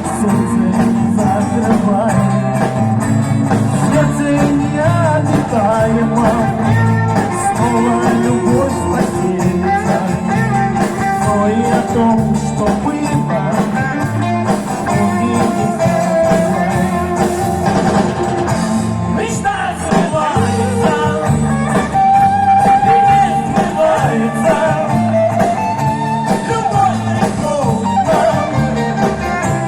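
A live band playing a rock-style song, with a steady bass line and guitar under a melody line.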